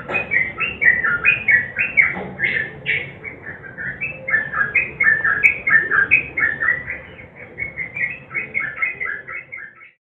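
Yellow-vented bulbul (trucukan) singing a fast, unbroken string of bubbly, chattering notes that cuts off suddenly just before the tenth second.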